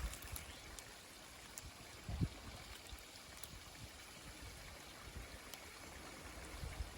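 Faint, steady running water of a shallow creek, with a brief low thump about two seconds in.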